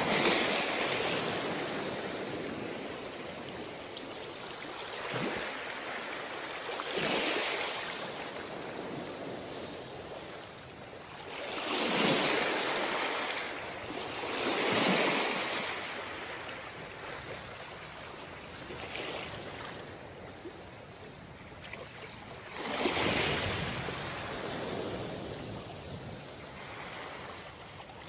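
Ocean surf on a beach: waves breaking and washing in, a swell of noise every few seconds, with the biggest breaks about 12, 15 and 23 seconds in.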